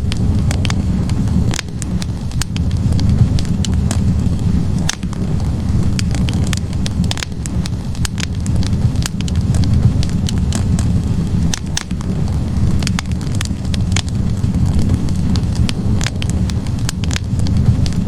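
Wood fire burning in a fireplace: logs crackling with frequent, irregular sharp pops over a steady low rumble of the flames.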